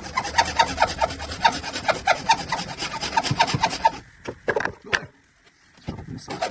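Hand saw cutting through a drain pipe in quick back-and-forth strokes. The sawing stops about four seconds in, a couple of knocks follow, and it starts again near the end.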